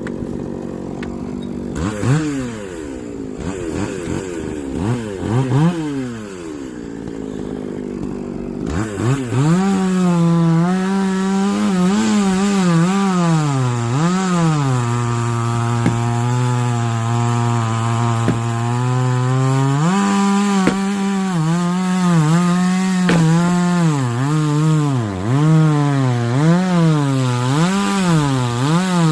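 Chainsaw cutting through a large log, its engine pitch repeatedly dipping under load and rising again. It is quieter for the first several seconds, then louder from about nine seconds in.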